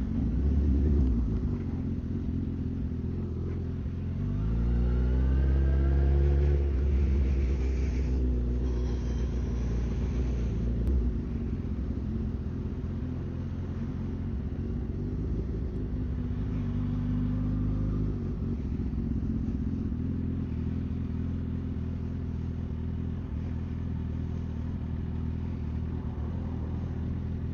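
Suzuki GSX-R1000 inline-four engine running under the rider: its note rises about four seconds in as it accelerates, drops back a couple of seconds later, and then holds a steady lower note.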